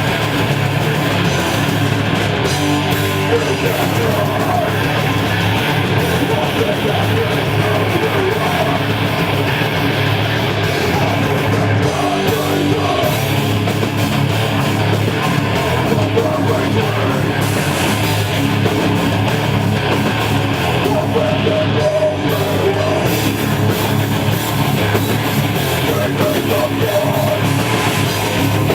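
Heavy metal band playing live: loud distorted electric guitars with bass and drums.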